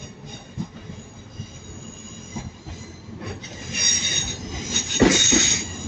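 Train wheels squealing on curved track as a train moves slowly through the station, a high, steady multi-toned squeal over a low rumble that grows louder in the second half.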